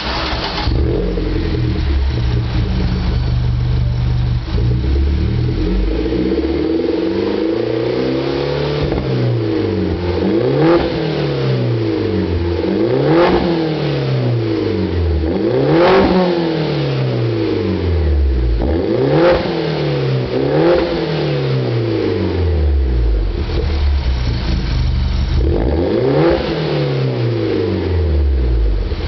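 MINI R55 Clubman's four-cylinder engine heard through a one-off titanium exhaust. It holds a steady note for the first few seconds, then is revved again and again in quick throttle blips, each one rising and falling back, about one every second and a half.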